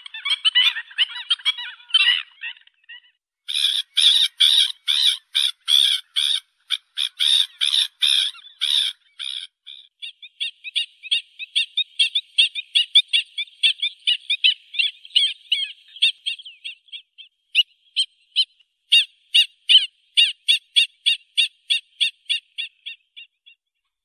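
A flock of black-winged stilts calling: sharp, high yapping notes, overlapping at first, then in runs of rapidly repeated calls with short pauses between runs.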